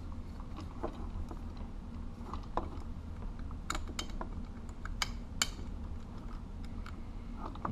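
Light handling noises from 14-2 electrical wire and a plastic light fixture being worked by hand: a scattered handful of small clicks and ticks, most of them in the middle, over a steady low hum.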